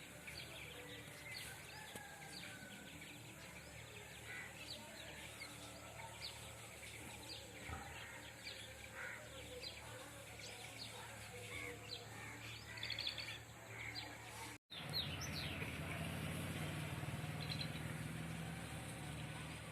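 Small birds chirping: many short, high chirps in quick succession, faint over a low background hum.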